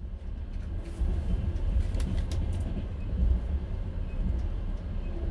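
Inside an open-plan sleeping car of a moving passenger train: steady low rumble of the wheels on the rails, with a few sharp clicks and rattles about two seconds in.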